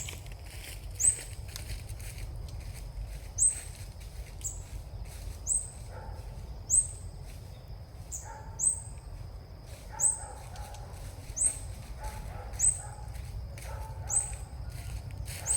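A bird's short, very high chirp repeated about once a second, each one a quick upward flick, over a thin steady high whine and low outdoor rumble; a few fainter, lower calls come in midway.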